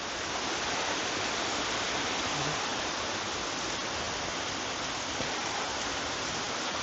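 Steady hiss of rain falling on rainforest foliage.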